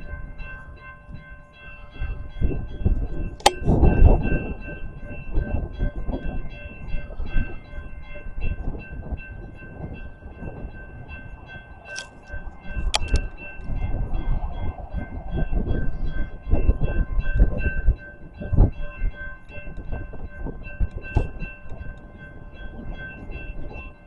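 A railroad locomotive running light with no cars behind it, its low rumble swelling and fading twice as it passes. There are a few sharp clicks, and a steady high-pitched tone holds throughout.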